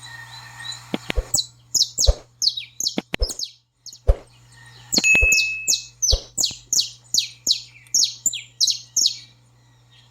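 Saffron finch singing an excited string of short, high, downward-sliding notes, about three a second, pausing briefly about four seconds in. Scattered thumps sound among the notes, and a low hum runs underneath.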